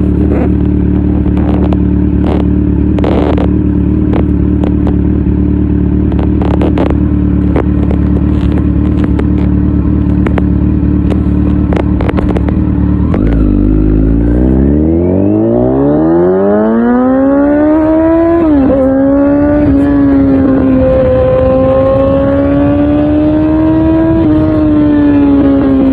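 Kawasaki Z900's inline-four engine with an Akrapovic full exhaust system idling steadily, with a few sharp clicks over it. Past the halfway point it pulls away, the revs climbing smoothly for several seconds. There is a short dip at a gear change, then it holds a steady cruising note.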